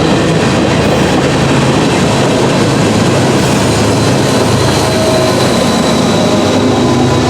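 Norfolk Southern freight train rolling past at close range: a loud, steady rumble of steel wheels on rail, with faint thin squealing tones over it.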